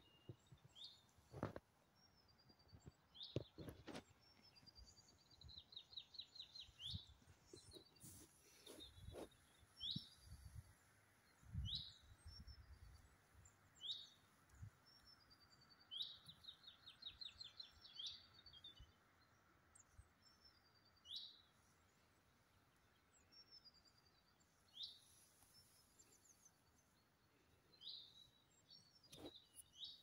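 Faint birdsong: a small songbird repeating short high phrases every couple of seconds, several ending in a rapid trill. Occasional low thumps underneath.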